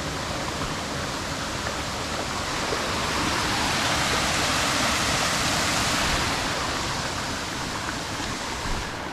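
Waterfall pouring down: a steady rush of falling water that grows louder through the middle and eases off again toward the end.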